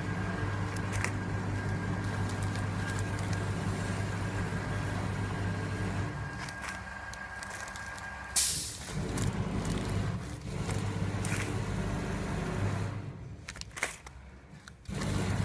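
Automatic snack bag-packing machine running with a steady motor hum, scattered clicks, and one sudden loud burst of hiss a little past halfway that dies away over about a second.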